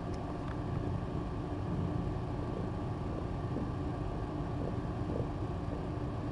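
Steady low hum and hiss of room noise, with a faint steady tone running through it and no sharp events.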